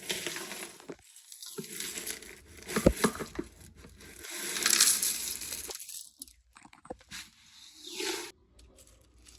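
Cereal packaging crinkling and rustling as it is handled, in uneven spells, with a few sharp knocks about three seconds in.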